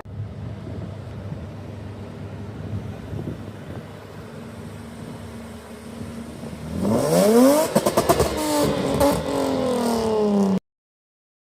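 A car engine idling, then revved hard about seven seconds in, its pitch climbing and then falling back as the revs drop. The sound cuts off abruptly near the end.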